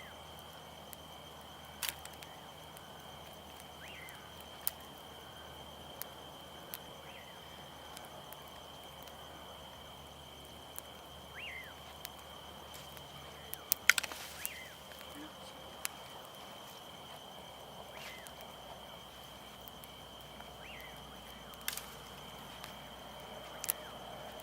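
Crickets trilling steadily at night, a single unbroken high tone, over a wood campfire that crackles with scattered sharp pops, the loudest cluster about halfway through. A few faint short chirps come and go.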